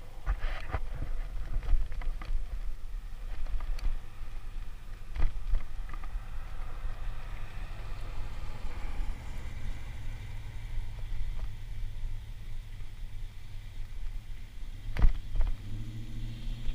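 Wind buffeting the microphone during a bicycle ride, a gusty low rumble, with scattered knocks and rattles from the bike going over bumps, the loudest about fifteen seconds in.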